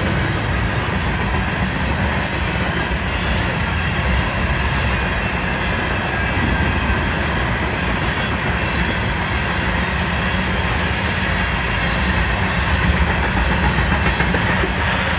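Freight train cars rolling past, a steady rumble of wheels on the rails with some clickety-clack.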